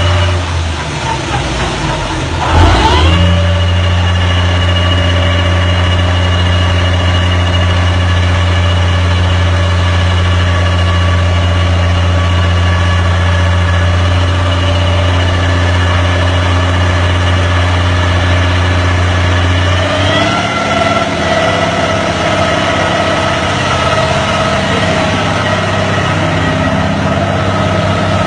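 Generator engine running steadily, with a brief loud surge about two and a half seconds in. About two-thirds of the way through its speed steps up slightly and its low hum changes.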